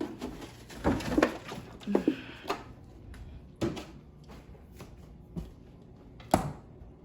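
Kitchen handling noises: a string of separate knocks and clatters as cupboards and containers are moved about, the sharpest knock near the end.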